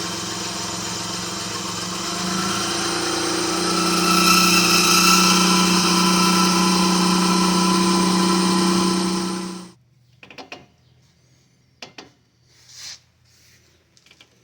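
Daihatsu Hijet mini truck's engine idling while the brake pedal is pressed; the engine note changes and grows louder a few seconds in. The sound cuts off suddenly near the end, leaving a few faint knocks.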